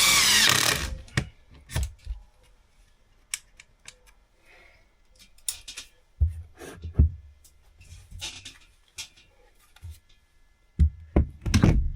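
A power drill runs briefly and stops just under a second in. Scattered knocks, thunks and small clicks follow as wood and tools are handled, with a few louder knocks near the end.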